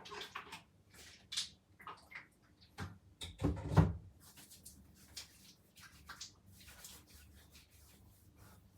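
Scattered soft clicks and rustles, with a louder knock about three and a half seconds in.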